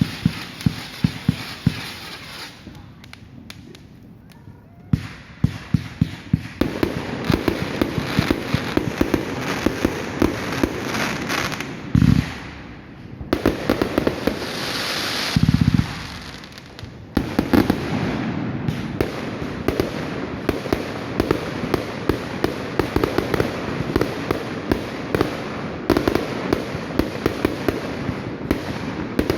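Fireworks going off in a rapid series of sharp cracks and pops. They thin out to a lull a few seconds in, then pick up again, with two louder, longer blasts in the middle.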